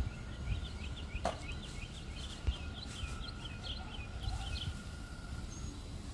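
A bird singing a quick run of short, sliding chirps, about four or five a second, for around four seconds before stopping, over a low background rumble and a faint steady hum.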